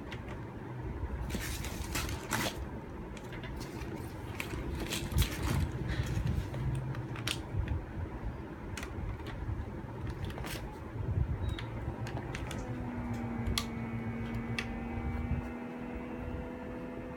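Clicks and rustles of a plastic bag being fitted into a vacuum sealer and the lid being closed, then about twelve seconds in the sealer's vacuum pump starts with a steady hum.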